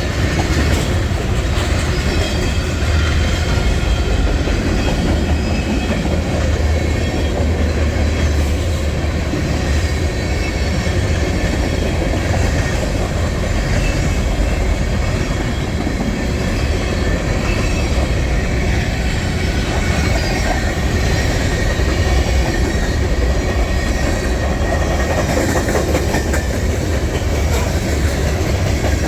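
Freight train rolling past: a steady low rumble of cars with wheels clacking over the rail joints.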